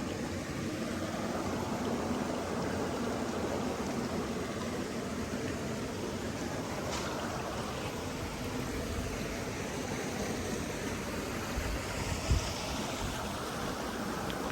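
Steady rushing noise, with a brief low thump about twelve seconds in.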